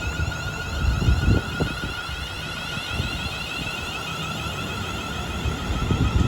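A train passing at speed, with a steady whine that slowly falls in pitch over a sweeping hiss. Wind buffets the microphone in gusts, hardest about a second in and near the end.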